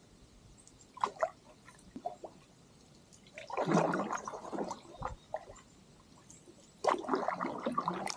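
Water splashing and sloshing around a canoe as it is paddled off, two longer splashes a few seconds apart with small knocks and drips between them.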